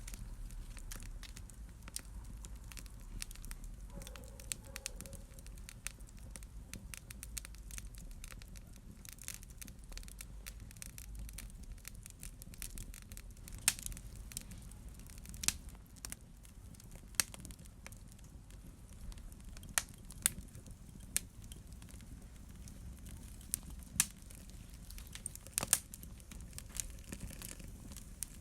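Wood fire burning in a fireplace, crackling steadily, with frequent small clicks and sharper pops every second or two over a low rumble of the flames.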